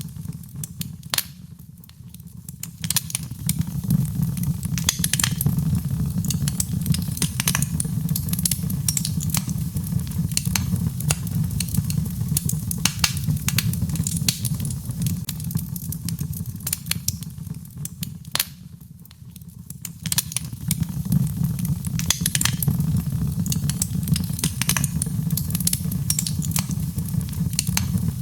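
Birchwood fire burning in a fireplace: frequent sharp, irregular crackles and pops over a low, steady rumble of flame. The rumble fades briefly twice, about two seconds in and again near the twenty-second mark.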